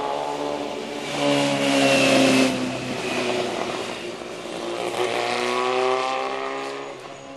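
2009 Kawasaki Ninja ZX-6R inline-four sport bike with a full exhaust, revving as it rides past, loudest about two seconds in and again about six seconds in. Its engine pitch climbs and drops between the two peaks, then fades near the end.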